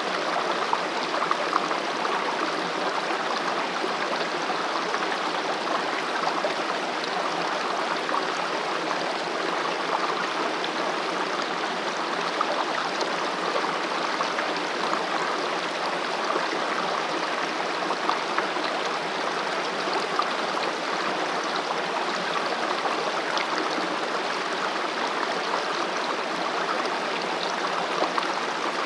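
Mountain valley stream flowing steadily over rocks, a continuous rush of water.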